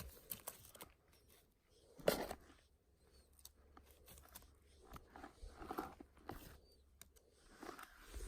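Faint crunching and rustling of twigs and leaf litter on a forest floor, the loudest crunch about two seconds in, with scattered small snaps and clicks.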